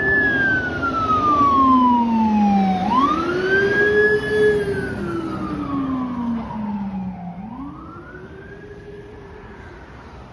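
Fire truck siren wailing in slow sweeps: the pitch slides down for about three seconds, then climbs back quickly, twice, over a low engine and road rumble. It grows fainter in the last few seconds.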